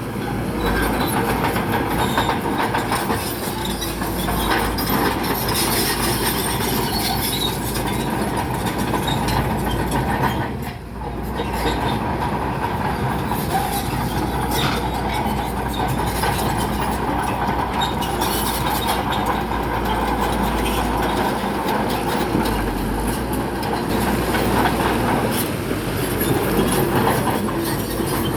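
Crawler bulldozer at work pushing rock: diesel engine running with the steel tracks clanking and squealing. The noise drops briefly about eleven seconds in.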